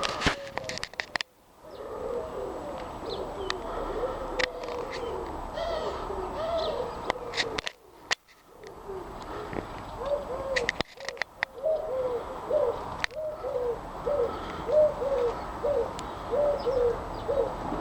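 Pigeons cooing: a long run of short, low, rising-and-falling coos, about two a second in the second half. The run is broken by a few sharp clicks and brief dropouts.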